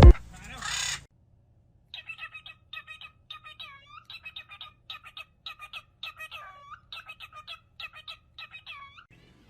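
A pet parrot chirping in a fast run of short, squawky calls, about three a second, each with a quick sweep in pitch.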